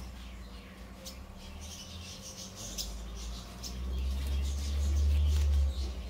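Small birds chirping, with many short, high chirps scattered throughout. A low rumble swells in the second half, is loudest near the end, and stops abruptly.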